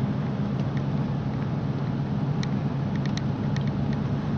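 Gehl 4400 skid steer's engine running steadily, with a few faint ticks over it about halfway through.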